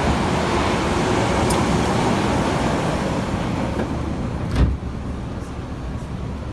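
Running noise of a Kita-Osaka Kyuko 8000 series train heard from inside the car: a steady rumble of wheels on rail that eases about three seconds in, with one sharp thump a little past the middle.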